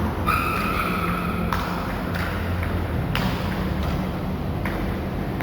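Table tennis ball being hit back and forth in a rally: several sharp clicks about a second apart, over a steady low rumble. A steady high tone sounds for about a second near the start.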